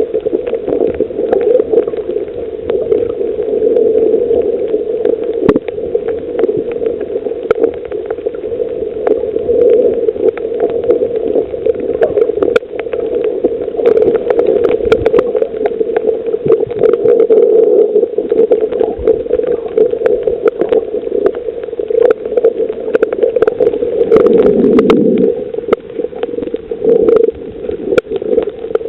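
Underwater reef ambience as picked up through a camera housing: a steady, loud rushing hum with many scattered sharp clicks and crackles.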